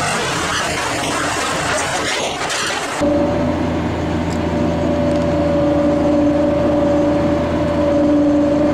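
Tractor and tractor-driven field machinery running. A dense rushing noise cuts, about three seconds in, to a steady engine hum with a constant whine over it.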